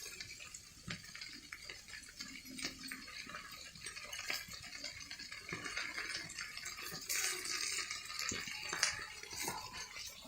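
Cookware and utensils being handled: scattered light clinks and knocks over a steady watery hiss.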